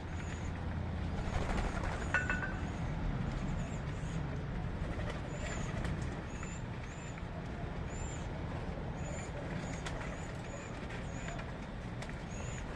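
Short, high bird chirps repeating every half second or so, over a steady low rumble.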